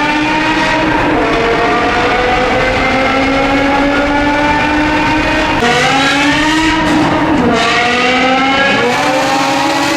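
BMW E60 M5 V10 running through an aftermarket Brilliant exhaust under hard acceleration, loud throughout. The engine note climbs steadily, then rises faster and drops sharply twice near the end as it shifts up, climbing again after each shift.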